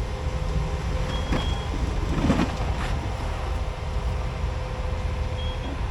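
Off-road rock crawler's engine running steadily at low revs, with a brief surge about two seconds in.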